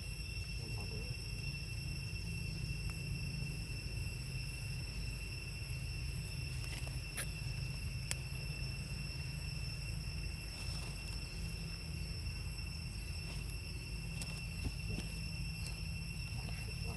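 A steady, unbroken high-pitched insect drone over a constant low rumble, with a few faint clicks.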